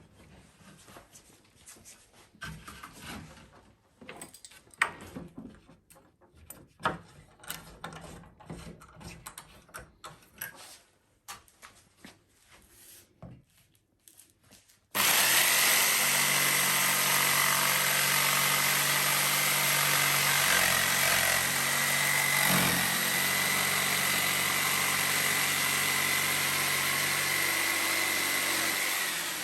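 Wooden boards and tools being handled, with scattered light knocks, taps and scrapes. About halfway through, an electric power tool starts and runs steadily on wood for about thirteen seconds with a high whine, easing off near the end.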